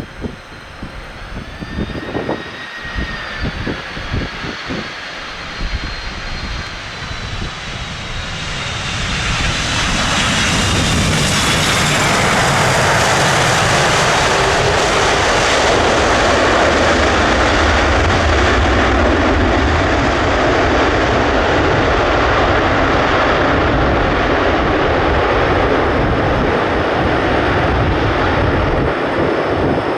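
Jet airliner landing: a thin high engine whine with gusts of wind buffeting the microphone, then the jet noise swells into a loud, steady roar about nine seconds in and holds.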